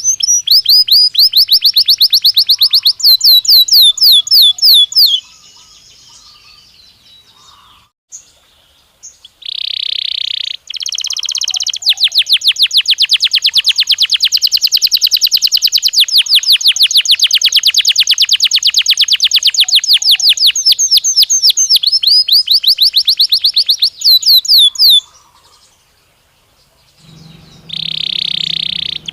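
Domestic (Belgian) canary singing: long rolls of rapid, evenly repeated high sweeping notes, broken by pauses of a few seconds about five seconds in and again near the end.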